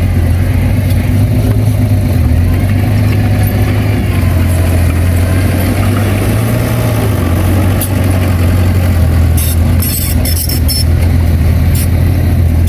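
Heavy diesel engine of earthmoving machinery running steadily under a low drone, with a cluster of sharp high clicks and rattles about three-quarters of the way through.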